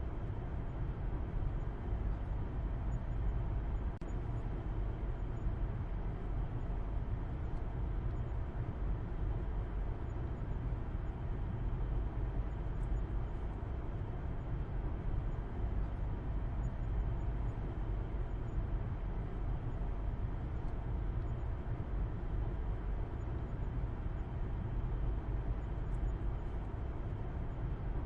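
Car driving at a steady speed: an even, low rumble of engine and road noise that holds constant without changes.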